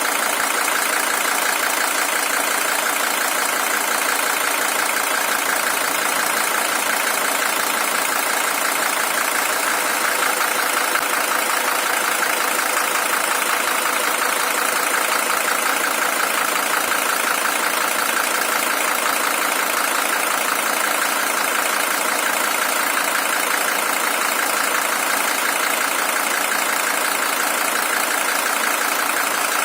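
Mercedes-Benz OM617 five-cylinder diesel engine idling steadily, the original engine of a W123 300TD with about 620,000 km on it.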